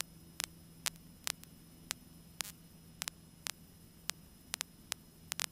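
Faint, irregular crackling clicks over a low steady hum on a cockpit radio and intercom audio feed, with the squelch closed and no voice or engine coming through.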